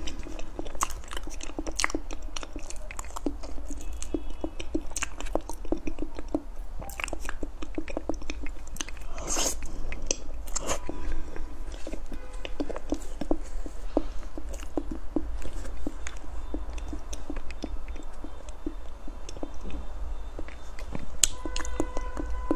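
Close-miked chewing of soft gold-glazed mousse cake, with many wet mouth clicks and smacks throughout.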